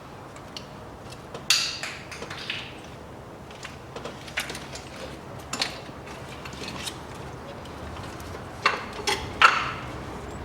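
Hand tools and metal parts clinking and knocking during engine-bay assembly work: scattered sharp clanks, with one about a second and a half in and a cluster of three near the end.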